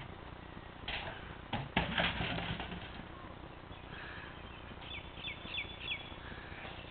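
A bird calls four quick whistled notes, each sliding downward, about five seconds in. Earlier, about a second in, a louder rustling, thudding burst of noise lasts a second or so.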